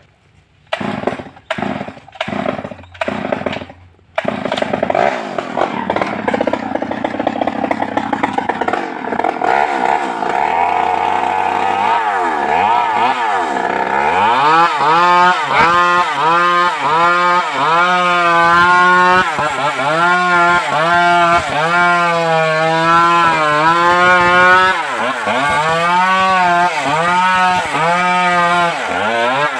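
Stihl MS 381 two-stroke chainsaw: several short bursts, then it catches about four seconds in and keeps running. From about halfway on, its engine pitch rises and dips again and again as it is revved up and eased off.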